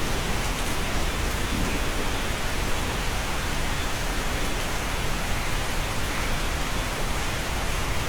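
Steady rain heard from inside a cabin: an even, unbroken hiss with a low rumble underneath.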